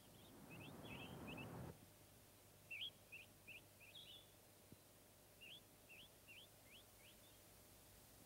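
Faint small birds chirping: three groups of short, quick high chirps, a few to each group, with a soft hiss under the first couple of seconds.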